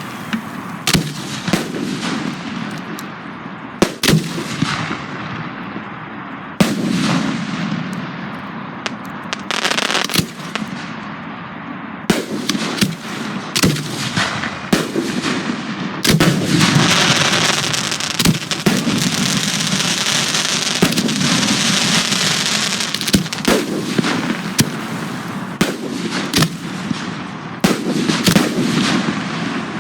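Aerial fireworks shells and cakes firing in a professional display: a quick, irregular run of sharp bangs and booms, with one long stretch of steady hissing from about 16 to 23 seconds in.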